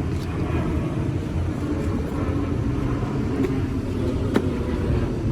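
Steady low rumble of a car on the move, with a single short click about four seconds in.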